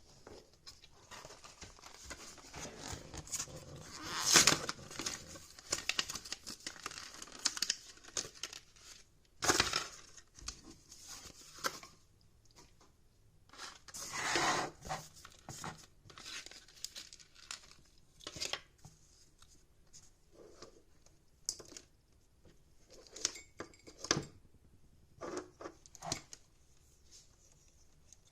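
Cardboard-and-plastic blister-card packaging being torn and crinkled open by hand, in irregular rips and rustles; the loudest tears come about four, nine and fourteen seconds in, with smaller crackles and clicks after.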